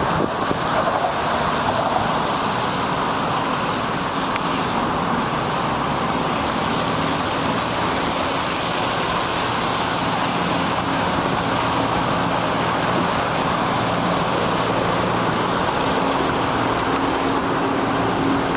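Steady traffic noise on a wet city street, with tyres hissing on the wet pavement and the low hum of a vehicle engine that grows stronger near the end.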